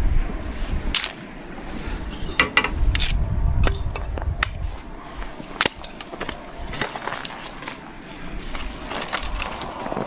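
Firewood being split by hand: a series of irregular sharp knocks and cracks of wood struck and splitting, over a low rumble.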